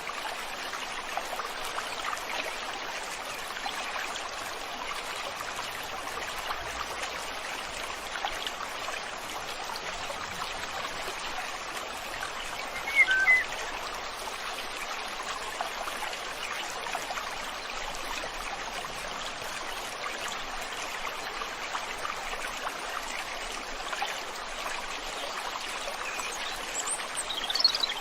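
River water flowing steadily, with a short bird call about halfway through.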